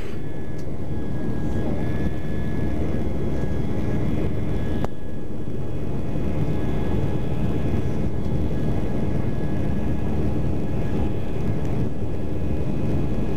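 Steady engine and airflow noise heard inside the cabin of an Airbus A320-200 climbing after takeoff, with faint steady tones over it. There is a single sharp click about five seconds in.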